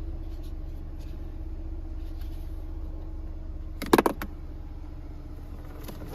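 Mazda CX-30's Skyactiv-X engine idling with a steady low hum. A brief cluster of sharp knocks comes about four seconds in.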